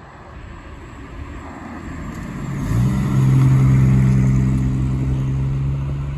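A motor vehicle engine running, growing louder over the first couple of seconds, then holding a steady low hum from about three seconds in.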